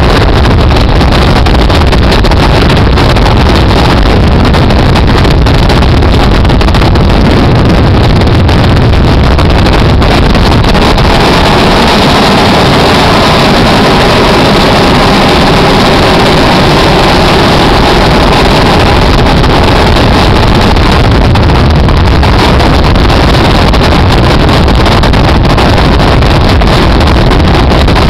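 Military helicopter's turbine and rotor noise, loud and steady, with no change in pitch or level.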